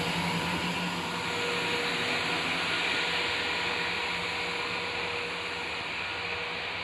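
Diesel train running with a steady hum, slowly fading as it moves away.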